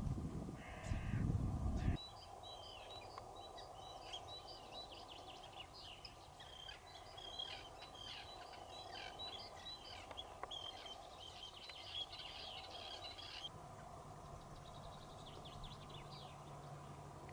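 Small birds calling and singing in quick, high chirps for most of the stretch, until they stop a little past the middle. It opens with a low rumble on the microphone that lasts about two seconds, and a steady low hum starts near the end.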